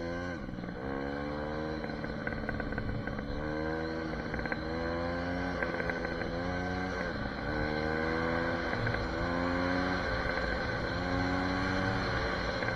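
SSR 150 pit bike's four-stroke single-cylinder engine under way, its pitch climbing and then dropping back sharply a few times as the rider shifts up through the gears.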